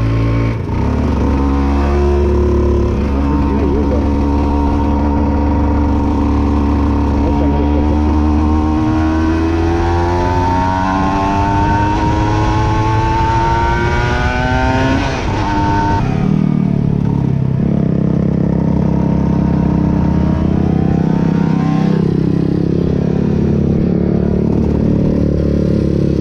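Aprilia RS 125 two-stroke motorcycle engine pulling under load, its pitch climbing slowly and steadily for about fifteen seconds. It then drops suddenly to a lower, steadier note.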